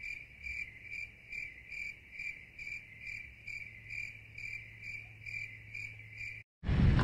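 Cricket chirping: a steady run of short, high, evenly spaced chirps, about two a second, that stops abruptly near the end.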